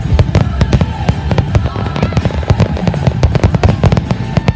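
Aerial fireworks display: a rapid barrage of shell bursts, several loud bangs a second overlapping over a continuous low rumble.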